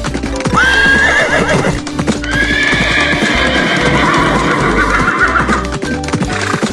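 Horse whinnying twice over hoof clip-clop, a short call and then a long one that trembles at its end. Background music runs underneath.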